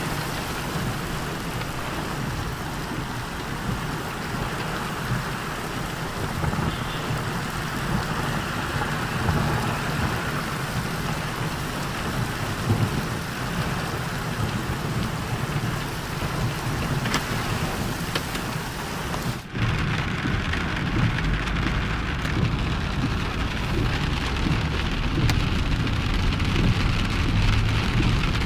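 Steady downpour of rain. About two-thirds of the way through the sound drops out for an instant, then goes on with a stronger low rumble underneath.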